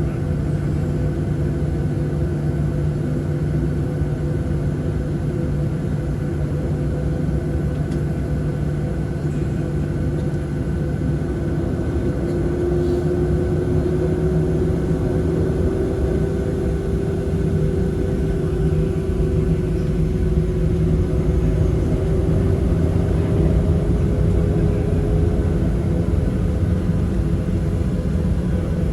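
Boeing 737-700 cabin noise: the CFM56-7B turbofan engines and airflow make a steady rumble with a hum of several steady tones. About halfway through, one engine tone slowly rises in pitch and the noise grows slightly louder.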